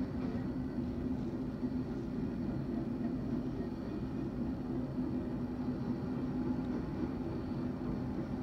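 Steady low rumble of a distant train, with a constant low hum running through it.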